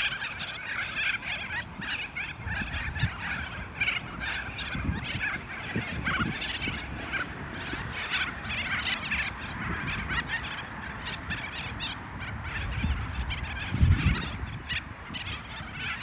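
A flock of birds calling, many short overlapping calls in a dense, steady chatter, with a low thud near the end.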